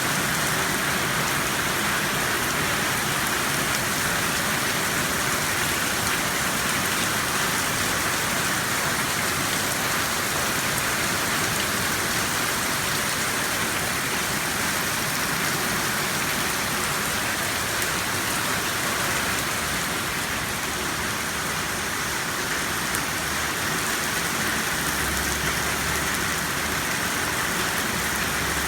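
Heavy rain falling steadily, an even rushing hiss of rain on surfaces.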